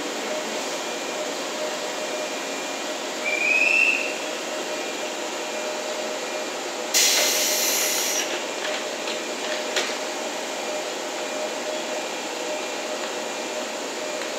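JNR 117 series electric train standing at the platform, its onboard equipment giving a steady hum. About three seconds in a short rising whistle-like tone sounds. About seven seconds in there is a sharp one-second hiss of compressed air, followed by a few clicks and knocks as the doors close.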